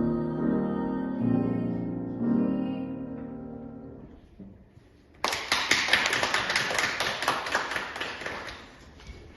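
Closing chords of a piano accompaniment, struck and left to ring out and fade away. About five seconds in, audience applause breaks out suddenly and then thins out.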